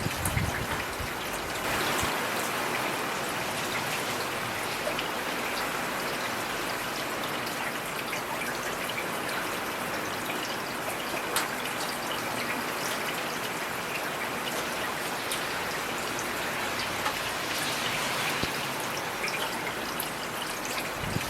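Heavy rain falling steadily, a dense hiss with many individual drops ticking on a hard surface. A brief low thud sounds right at the start.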